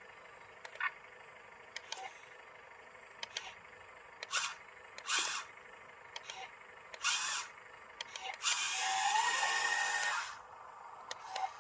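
Small electric motors of a remote-controlled mini excavator whirring in short bursts, then for about two seconds with a rising whine partway through, among light clicks and scrapes.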